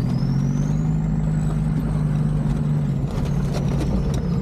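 Land Rover Discovery 2's Td5 five-cylinder turbodiesel running at low speed on a rough lane, a steady engine hum with a thin high whine that rises, holds and falls away after about three seconds. A few sharp clicks and knocks of body rattle come near the end.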